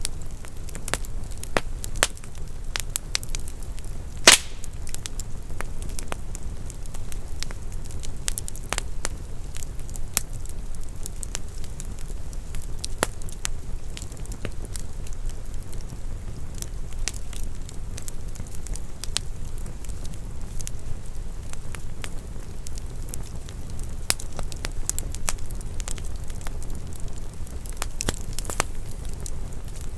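Wood fire burning in a fireplace, crackling with many irregular small pops and one louder pop about four seconds in, over a low steady noise from the burning.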